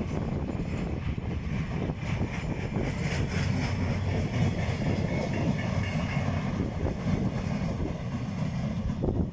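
A train running past on the rails, with steady rumbling wheel noise and some clickety-clack.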